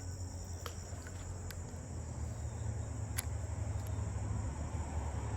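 Steady, high-pitched chorus of insects, such as crickets, over a low rumble, with a few faint clicks, the clearest about three seconds in.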